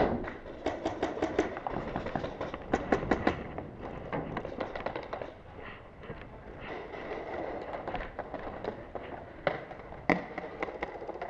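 Paintball markers firing in rapid strings of sharp pops, several shots in quick succession, coming in bursts with short gaps between them and one especially loud shot near the end.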